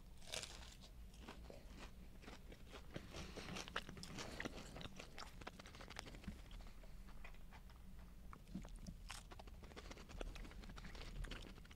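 A person biting into a crispy fried flounder fillet and chewing it: faint crunching with many small clicks.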